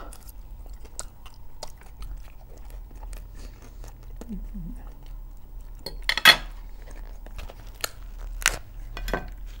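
Close-up chewing of fried liver and bread: wet mouth clicks and small crunches, with a few louder crackles in the second half, one as crusty bread is torn by hand.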